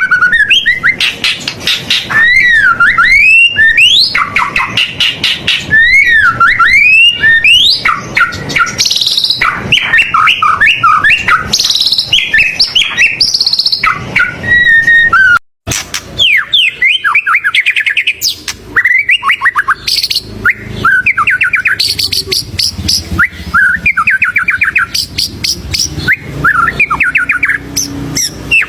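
White-rumped shama (murai batu) singing a loud, continuous, varied song of swooping whistles and fast trills, full of mimicked phrases (isian). The song breaks off abruptly for a moment about halfway through, then carries on slightly quieter.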